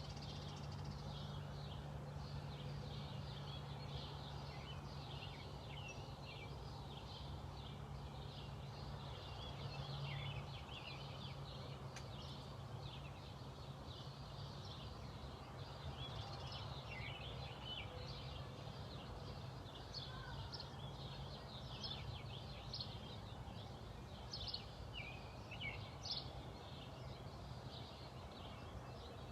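Small songbirds chirping and singing, many short overlapping calls, busier in the second half, over a steady low hum.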